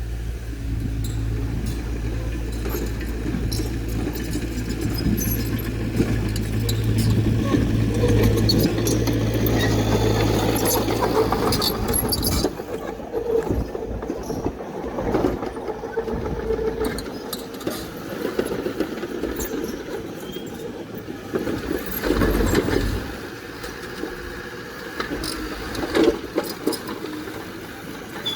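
Diesel engine of heavy earthmoving equipment running with a steady low drone. About twelve seconds in the drone drops away, leaving scattered knocks and clatter.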